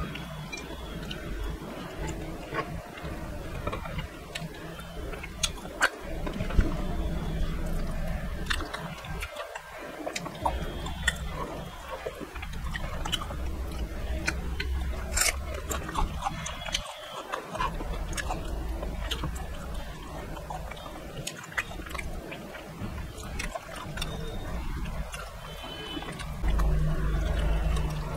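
Close-up mouth sounds of eating fried fish head by hand: chewing, lip smacks and small crunches, with scattered clicks as the fried head is picked apart.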